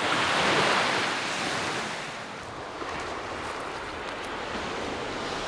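Lake Superior waves washing onto a sand beach: a surge that peaks in the first second and eases to a steadier wash, with some wind.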